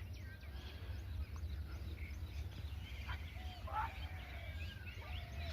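Faint birds chirping and calling, with many short, quick chirps and glides, over a low, steady hum.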